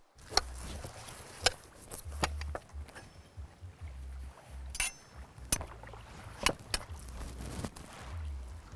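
Scattered sharp knocks and clicks, about seven in all, over an on-and-off low rumble.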